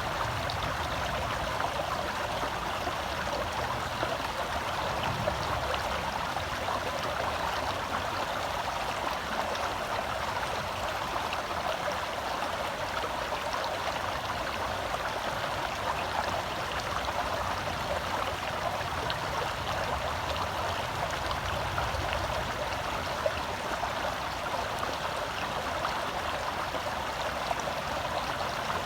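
Forest stream flowing over rocks: a steady, even rush and babble of water.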